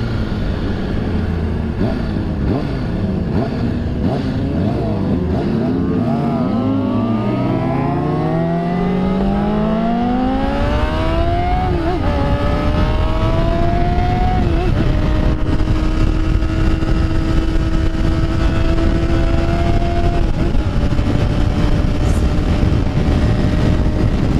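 Motorcycle engine rising and falling with the throttle through bends, then pulling up through the gears with a couple of upshifts and settling to a steady cruise. Wind rushes over the microphone throughout.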